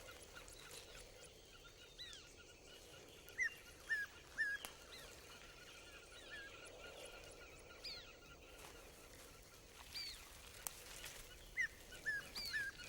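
Birds calling: short, high notes that each rise and fall, in small clusters of three or four about three and a half seconds in and again near the end, with scattered single notes between. Faint outdoor background with a thin steady high tone underneath.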